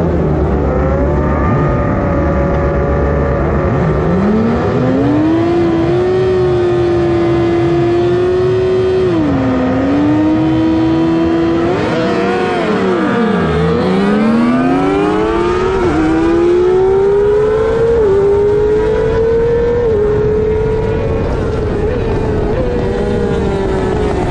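Middleweight superbike engine running hard on a race track, its pitch climbing and then dropping sharply at each upshift. About halfway it falls low under braking, then pulls back up through the gears. Other bikes' engines rise and fall in pitch around it.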